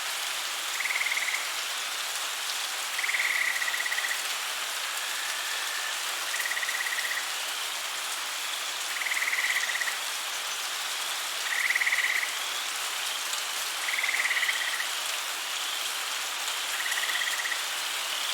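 Frogs calling in a swamp: a short trilled call repeats every two to three seconds, about eight times, with fainter, higher chirps joining about halfway through, over a steady rain-like hiss.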